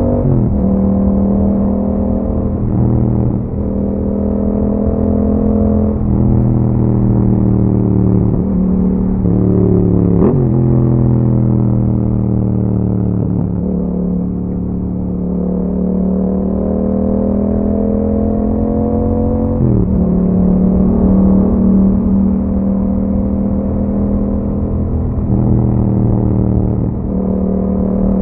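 Yamaha MT-07's parallel-twin engine breathing through an aftermarket Akrapovic exhaust while riding, run through the gears. The engine note climbs slowly under load, then drops sharply at each gear change, about eight times.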